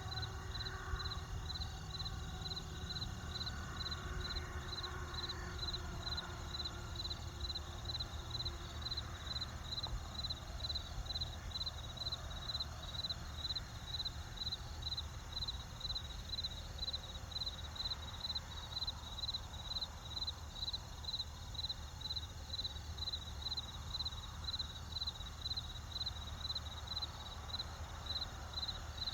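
Crickets chirping in an even rhythm, about two chirps a second, over a low steady rumble.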